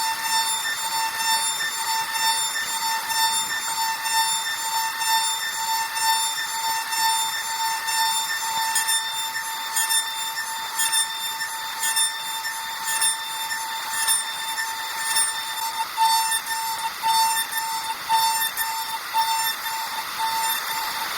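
CNC router spindle running with a steady high-pitched whine over a hiss of cutting noise while it mills a wooden part.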